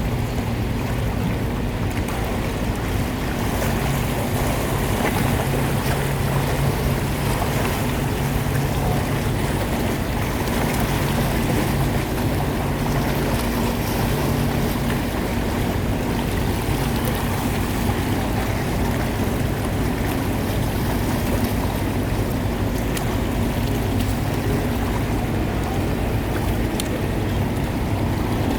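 Boat engine running steadily with a constant low hum, over the wash of water.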